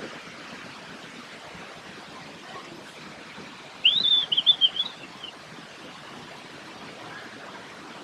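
A bird calls once about four seconds in: a short phrase of quick high chirps, rising then falling, lasting about a second and a half, over a steady rush of flowing water.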